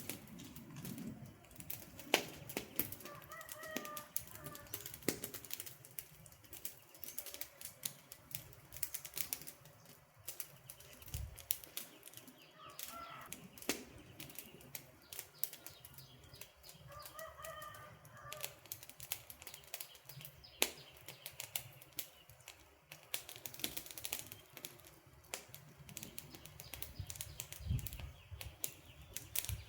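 Wood fire crackling, with frequent sharp irregular pops and snaps. A few short bird calls sound faintly several times over the fire.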